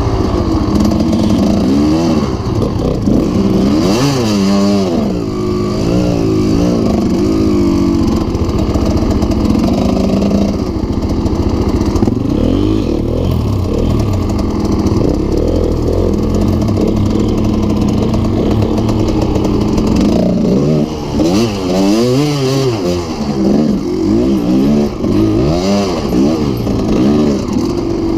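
Dirt bike engine running and revving up and down over and over, its pitch rising and falling with the throttle. The hardest revving comes a few seconds in and again in the last third.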